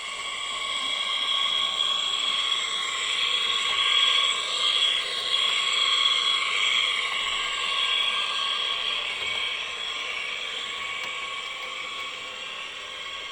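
Märklin H0 model train running past: the whir of its motor and gearing with the rattle of its wheels on three-rail track. It grows louder over the first few seconds and fades slowly toward the end.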